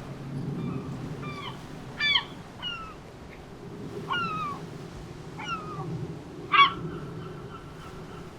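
Gulls calling: about six short, downward-sliding mewing calls, the loudest about two seconds in and near the end, over a low steady rumble.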